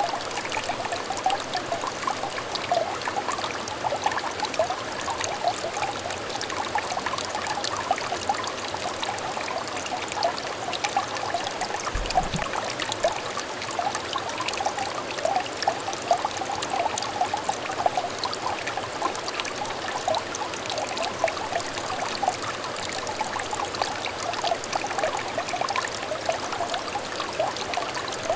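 Small stream of water trickling steadily, a continuous babble of small bubbling splashes.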